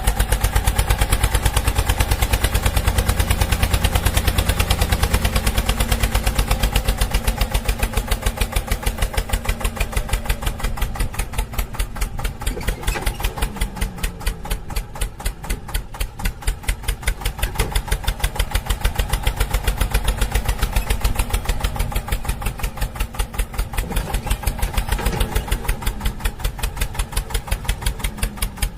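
Vehicle engine running steadily with a fast, even pulse of many beats a second, changing little throughout.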